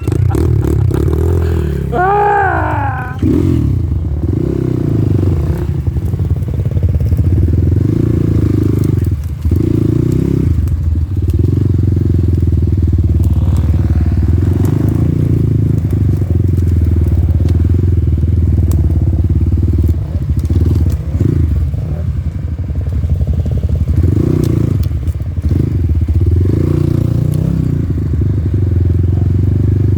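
Off-road motorcycle engine running as the bike is ridden, a steady low rumble throughout.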